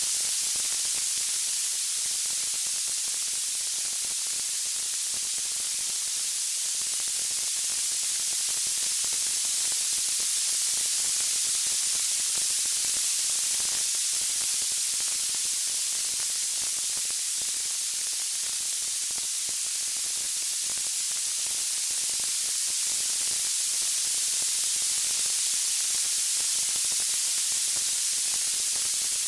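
Crackling wood-fire ambience: a steady, high hiss with fine irregular crackle, slowly swelling and easing in level.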